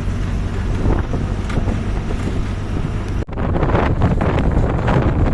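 Strong wind buffeting the microphone over the low rumble of a moving bus. About three seconds in the sound cuts out for an instant, then the gusting comes back louder and rougher.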